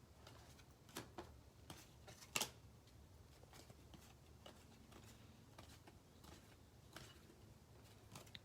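Faint, scattered clicks and flicks of baseball trading cards being handled and flipped through one at a time, the sharpest snap about two and a half seconds in.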